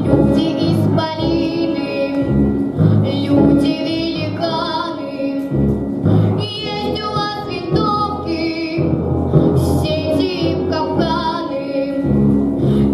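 Children's choir singing a slow song over instrumental accompaniment, the voices wavering in pitch over a steady low backing.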